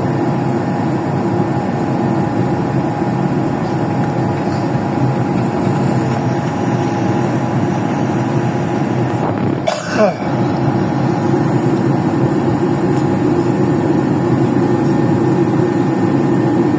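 Steady engine and air noise inside an airliner's cabin in flight, with a short falling-pitched sound about ten seconds in.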